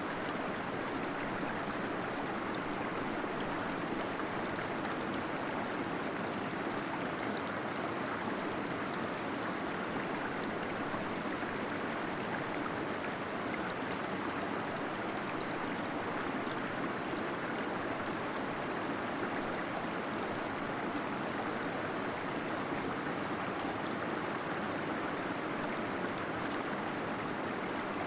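Small waterfall splashing and gurgling without pause, a steady even rush of water.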